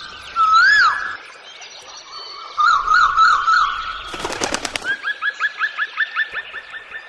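Birds whistling and calling: a slurred rising-and-falling whistle, a warbled phrase, then a fast run of short rising notes, about a dozen a second, in the second half. Just before that run comes a brief burst of rapid clicks, under a second long.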